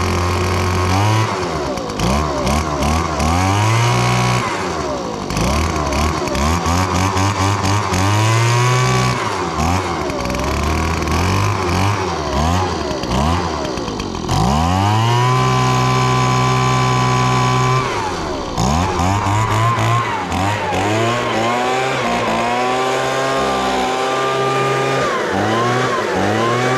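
Echo PB-2155 handheld leaf blower's 21.2cc two-stroke engine revved up and dropped back toward idle again and again. One longer hold at high revs comes about halfway through.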